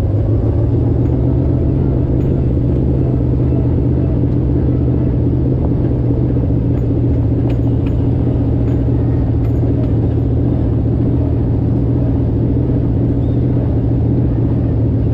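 Rat rod's engine with headers running at a steady cruise, heard from the open seat of the moving car.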